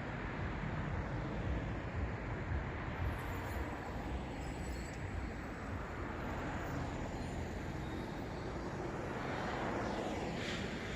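Road traffic noise: a steady wash of cars going by, with the tyre noise swelling as one passes closer near the end.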